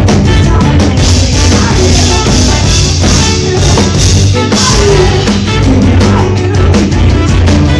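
Live band playing loud rock music, with drums keeping a steady beat and a wash of cymbals from about a second in to about five seconds in.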